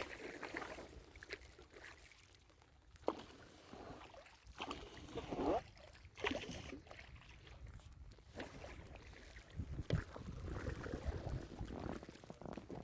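Paddle strokes splashing in lake water beside a small paddled boat, irregular and a second or two apart, with wind rumbling on the microphone.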